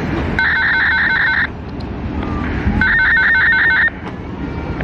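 An electronic warbling ring in two bursts of about a second each, with a pause of a little over a second between them. A steady rumble runs underneath.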